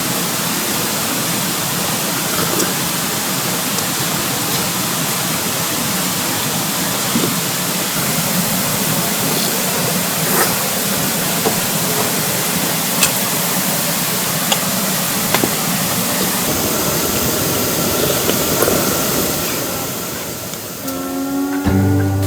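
Steady rain with the rush of the valley stream, a dense even hiss broken by scattered sharp drip ticks. It fades about twenty seconds in, and music begins just before the end.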